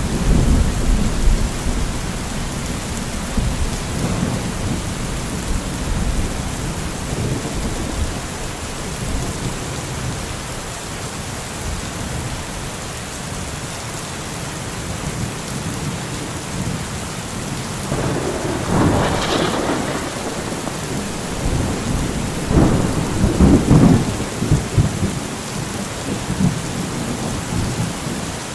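Steady heavy rain falling, with thunder: low rumbling in the first few seconds, a sharper crack of thunder about two-thirds of the way in, and another loud rumbling clap a few seconds later.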